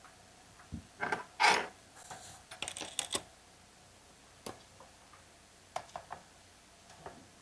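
Scattered light clicks and knocks of tools and small chainsaw parts being handled, with a brief louder scrape about a second and a half in.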